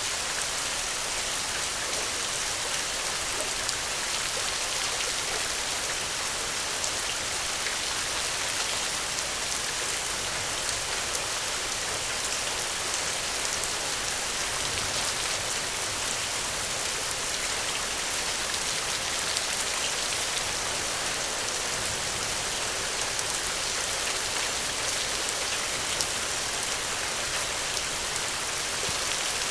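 Steady rain falling, an even hiss with many fine scattered drop ticks and no thunder.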